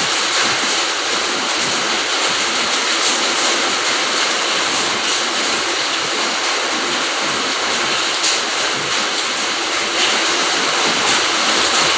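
Steady rain falling in a garden: an even, unbroken hiss, with a few slightly louder drops standing out near the end.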